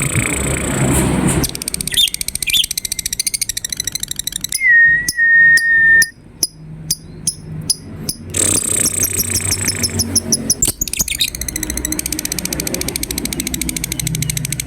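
Lovebirds chirping and chattering in fast, rapid-fire trills, with a clear held whistle about five seconds in.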